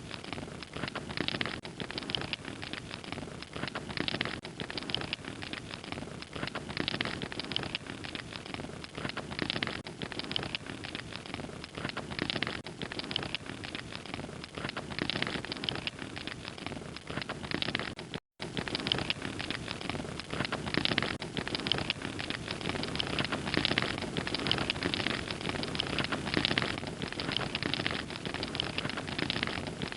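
Wood fire crackling steadily, with a dense run of small pops and snaps over a soft rushing bed. The sound cuts out for an instant about 18 seconds in.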